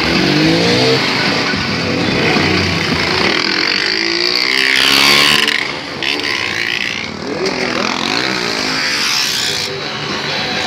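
Motorcycle engines revving hard as bikes pass one after another, their pitch climbing and falling with the throttle, loudest about five seconds in.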